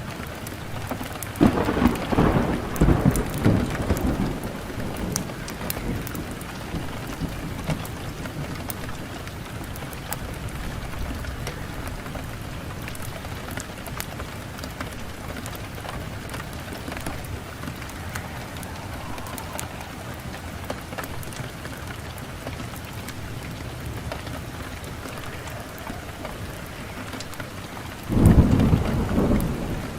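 Wood fire burning in a fireplace, crackling with many small sharp pops over a steady hiss. Two loud low rumbling swells lasting a few seconds break in, one soon after the start and one near the end.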